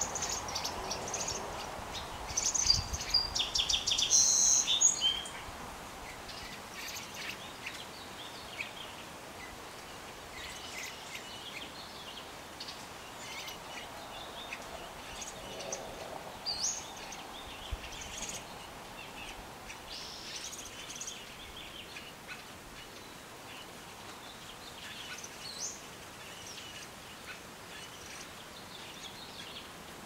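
Birds chirping in quick, high calls, loudest in a burst about two to five seconds in, then scattered fainter chirps over a steady outdoor hiss.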